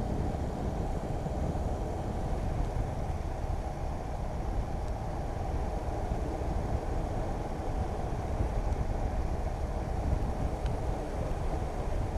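Motorcycle on the move at a steady speed: a continuous low rumble of engine, wind and road noise on the rider's microphone.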